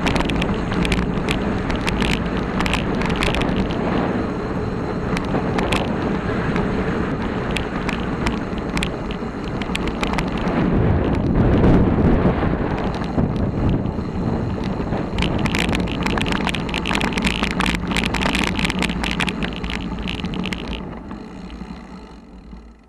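Riding a bicycle over a rough dirt track: wind rushing over the microphone with irregular rattling and clattering from the bike over bumps. It dies away near the end as the bike slows to a stop.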